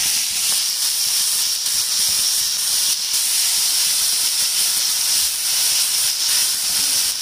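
Chopped onions, green chillies and curry leaves sizzling in hot oil in a pan, a steady high hiss, while a silicone spatula stirs them.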